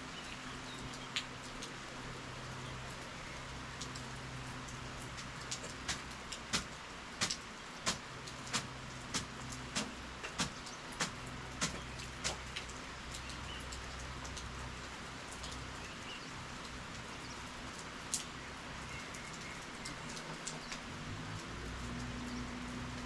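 Steady rainfall hiss. About a quarter of the way in comes a run of a dozen sharp ticks, evenly spaced a little over half a second apart, which stops near halfway; a faint low hum runs underneath.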